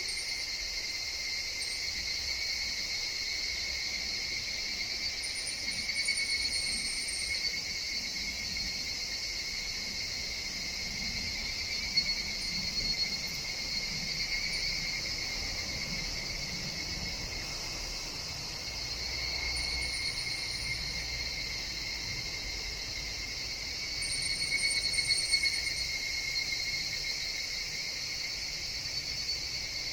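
Chorus of higurashi (evening cicadas) calling steadily in a forest, swelling louder several times as nearer individuals sing, most strongly in the last third. A few short, very high chirps sound over it.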